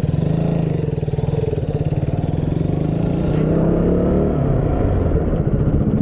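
Motorcycle engine running with a steady pulsing beat, its pitch shifting a little partway through as the bike rides on.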